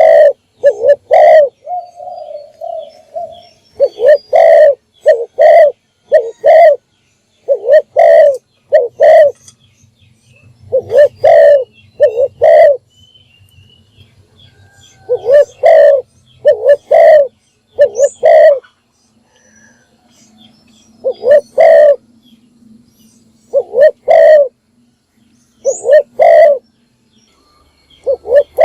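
Spotted dove cooing: loud, low coos in short phrases of two to four notes, repeated every few seconds, with a short rolling coo about two seconds in. It is a decoy dove's calling song, used to lure wild doves.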